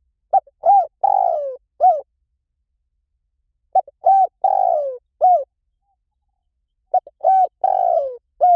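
Spotted dove cooing: three phrases about three seconds apart, each a couple of short coos, a longer coo falling in pitch, then one short closing coo.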